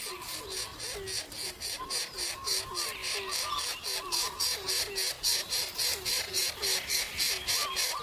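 Village hen (ayam kampung) clucking softly and repeatedly, several short low clucks a second, over a high rhythmic pulsing that repeats about three or four times a second and grows stronger toward the end.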